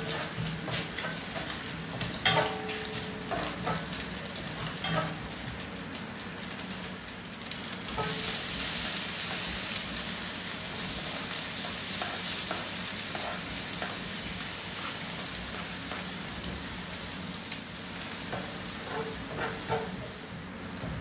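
Food frying in hot oil in a pan, a steady sizzle with scattered clicks and scrapes of a cooking utensil stirring it. The sizzle swells suddenly about eight seconds in and stays louder.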